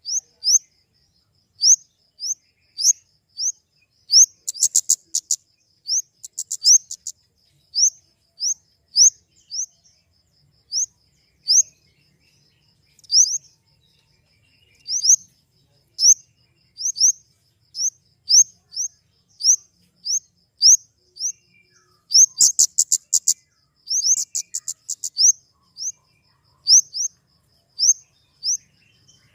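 Flowerpecker calls: a sharp, high, upslurred note repeated about once or twice a second. Twice, about five seconds in and again near the twenty-third second, the bird breaks into a rapid run of ticking notes.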